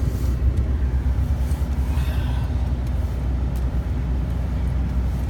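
Old Chevy pickup truck's engine running steadily with road noise, heard from inside the cab while driving.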